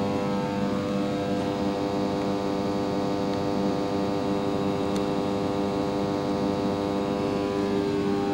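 Steady machine hum: a constant pitched drone with many overtones that does not change.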